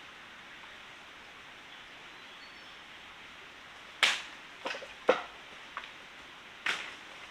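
Steady rush of a forest stream, then about four seconds in, five sharp irregular knocks in under three seconds, like a tool striking wood.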